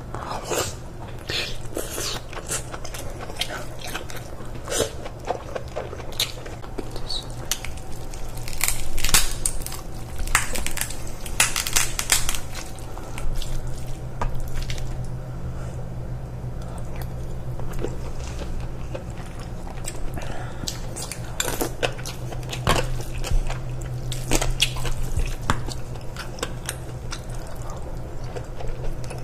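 Close-miked eating sounds of king crab: chewing and wet mouth noises with frequent short clicks of a metal spoon scraping against the crab shell, over a low steady hum.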